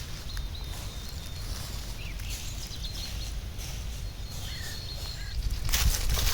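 Outdoor ambience: a low wind rumble with faint bird chirps, then a run of sharp clicks and crunches about two-thirds of the way through that is the loudest part.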